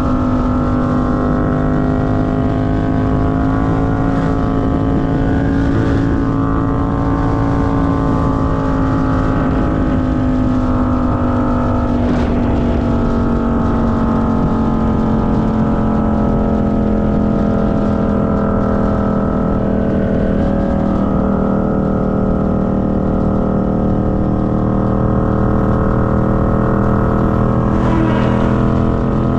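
Motorcycle engine running at a steady, fairly high speed while riding, its pitch easing slowly down and then holding level.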